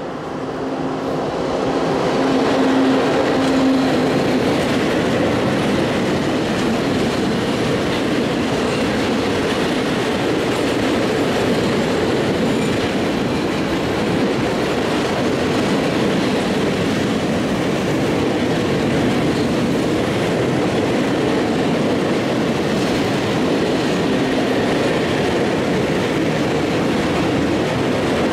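Electroputere 5100 kW electric locomotive passing close, followed by a long train of tank wagons rolling by, the steel wheels running on the rails. The sound swells over the first two seconds, with a steady hum in the first few seconds, then holds steady as the wagons pass.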